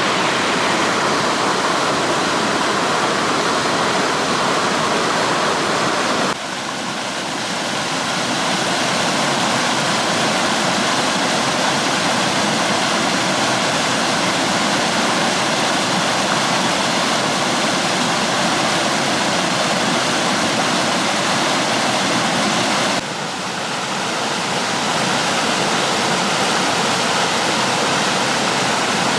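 Waterfall's rushing water, a loud, steady, even rush. The sound shifts suddenly about six seconds in and again near the end, each time dipping slightly and building back up.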